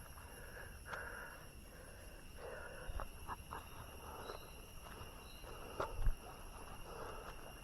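Steady high-pitched insect calls, like crickets, outdoors, with soft knocks about three and six seconds in.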